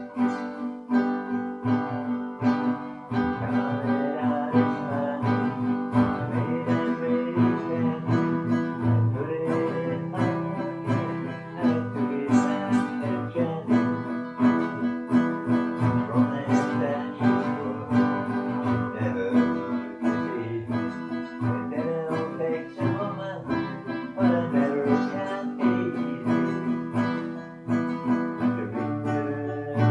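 Acoustic guitar being strummed, chords ringing on in a steady rhythm.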